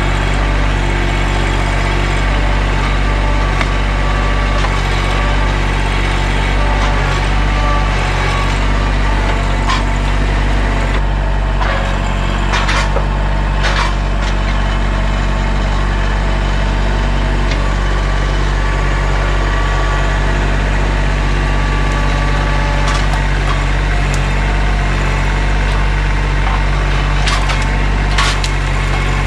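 Mahindra 1626 sub-compact tractor's diesel engine running steadily under work, with a few sharp cracks or knocks about halfway through and again near the end.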